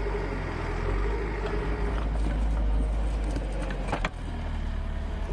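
Steady low rumble of a motor vehicle, with a single sharp click about four seconds in.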